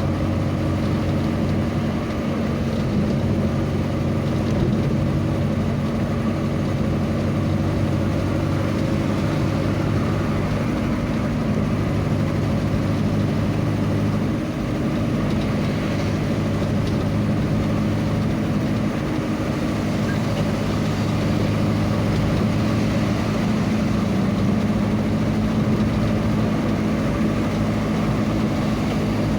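A vehicle's engine running at a steady pace while driving, an even hum with a constant noisy hiss over it.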